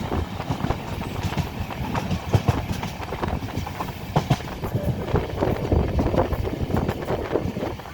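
Mandovi Express passenger train running, its wheels clattering over the rail joints in an uneven run of knocks over a steady rumble.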